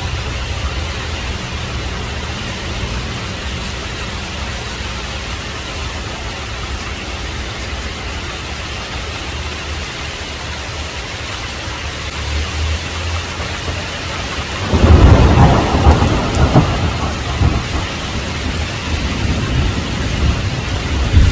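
Heavy rain falling steadily with low thunder rumbling under it. About fifteen seconds in, a loud thunderclap cracks and rolls on for several seconds.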